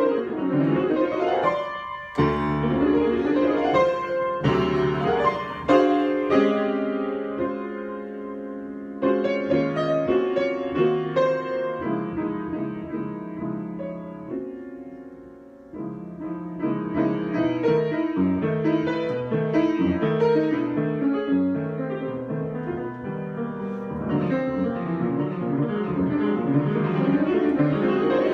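Solo piano improvisation in a classical style, with chords and running figures. It thins to a soft, sustained passage through the middle, then a new chord starts busier playing that carries on to the end.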